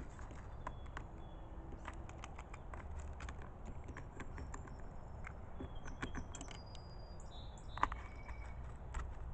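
Scattered small sharp clicks and taps with a few faint short, high bird chirps over a low steady outdoor rumble; one louder click about eight seconds in.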